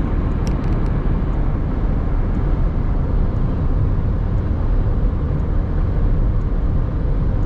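Steady road and engine noise of a car driving at highway speed, about 100 km/h, with a few faint clicks in the first second.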